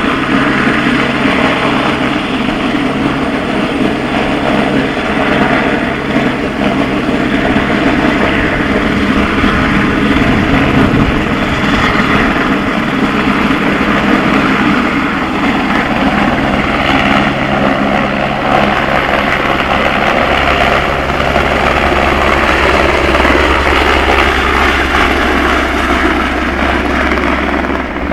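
Police helicopter running close by, its rotor and engine a loud steady drone with a deep hum; the low rumble grows stronger about two-thirds of the way through.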